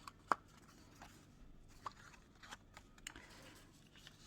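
Quiet handling of paper and craft tools, with a few sharp clicks, the loudest about a third of a second in and lighter ones spread through the rest.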